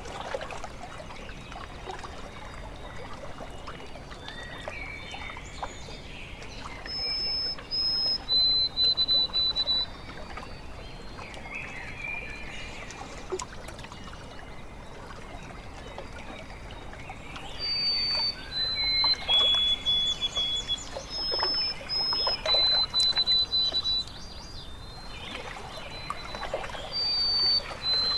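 Lake water lapping and trickling steadily, while a songbird sings phrases of clear whistled notes, each held at one pitch and stepping between higher and lower notes, three times.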